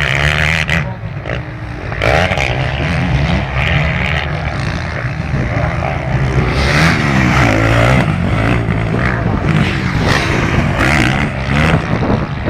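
Several motocross bikes racing, their engines revving hard and changing pitch up and down as the riders work the throttle and shift.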